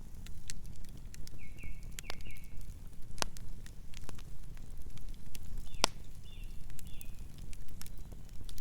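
Wood campfire burning and crackling over a steady low rumble, with scattered sharp pops, the loudest about three and six seconds in.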